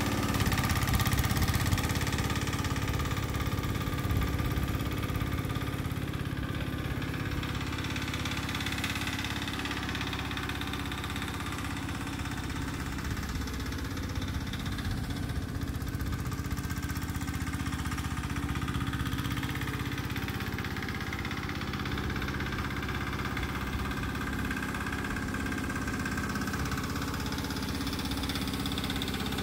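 Petter AC1Z single-cylinder air-cooled diesel engine on a 1948 Gibson Model D tractor, running steadily. It is a little louder for the first couple of seconds, then settles to an even idle.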